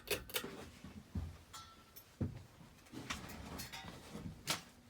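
Casablanca Four Seasons III ceiling fan motor starting on low speed with a low hum, which sounds bad to the owner, who suspects a drifting capacitor. Sharp clicks and knocks come now and then, the loudest near the end.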